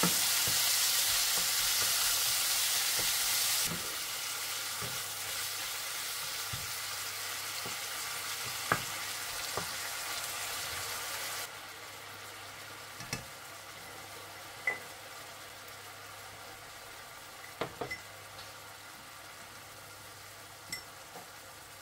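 Diced chicken sizzling in oil in a nonstick frying pan while it is stirred with a wooden spatula, with scattered light knocks of the spatula against the pan. The sizzle drops abruptly in level twice, about 4 and 11 seconds in.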